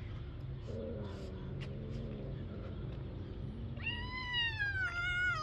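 A kitten meowing: one long, loud meow that falls in pitch, starting about four seconds in, preceded by a fainter, low drawn-out sound.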